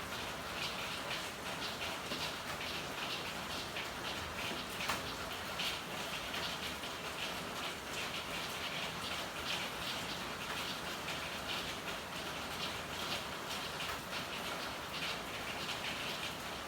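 Steady rain with a dense patter of drops striking hard surfaces, and a single sharper drip or tap about five seconds in.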